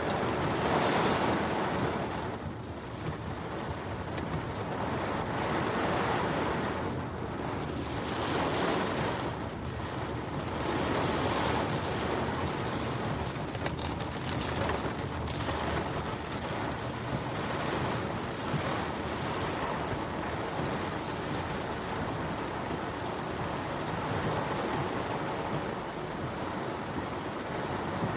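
Heavy monsoon downpour and strong wind gusts beating on a moving car: a steady rushing noise that swells and eases every few seconds.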